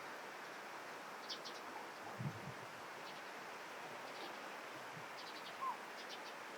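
Faint outdoor ambience: a steady hiss with scattered short, high chirps of small birds. There is a brief low thump about two seconds in, and a short rising note near the end.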